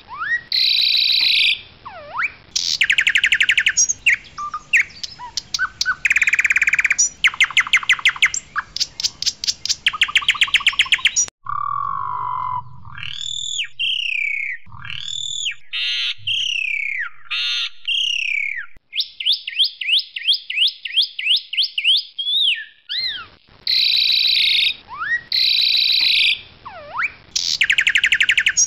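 Asian pied starling (white jalak suren) singing loudly: harsh chattering notes and fast rattling series. About a third of the way in it switches abruptly to softer rising and falling whistles and a fast ticking rattle, and near the end the harsh calls return.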